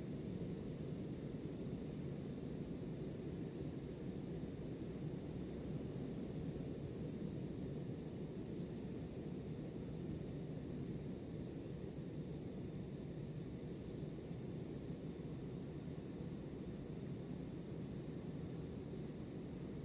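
Small birds chirping, many short high calls scattered throughout, over a steady low rushing background noise.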